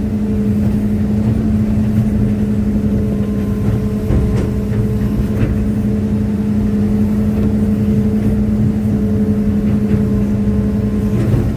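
Hitachi excavator's diesel engine running steadily at a constant pitch, with a few faint knocks over it.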